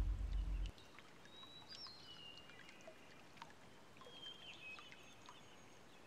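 Background music that cuts off under a second in, leaving faint forest ambience with a few short, high whistled bird calls, some falling slightly in pitch.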